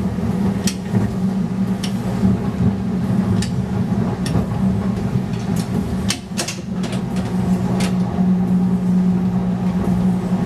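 Replica 1920s-style electric streetcar running along its tracks: a steady low drone with irregular sharp clicks and clacks.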